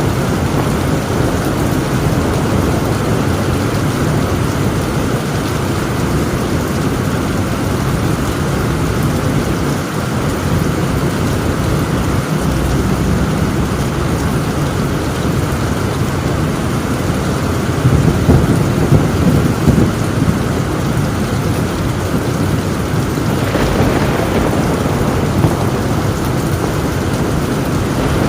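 Heavy, steady rain drumming on a tin roof, with continuous thunder rumbling underneath. A louder roll of thunder comes about two-thirds of the way through.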